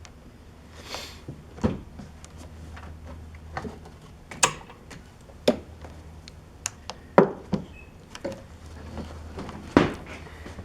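Irregular knocks and clunks from tools and parts being handled during engine work, with a short hiss about a second in, over a low steady hum.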